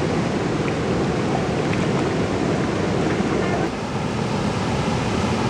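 Steady rushing noise of wind and water, with no distinct events.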